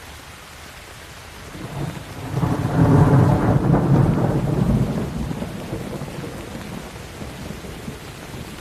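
Steady rain with a roll of thunder: the rumble builds about a second and a half in, peaks around three seconds and slowly fades over the next few seconds while the rain keeps falling.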